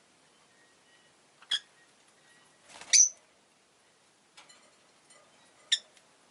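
Rosy-faced lovebird giving short, sharp, high chirps: one about a second and a half in, the loudest about three seconds in, and another near the end, with fainter soft notes and small clicks in between.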